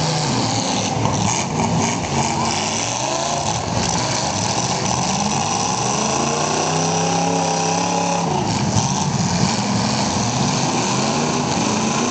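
Demolition derby cars' engines running and revving, rising and falling in pitch, with one rev climbing about six seconds in and dropping back near eight seconds.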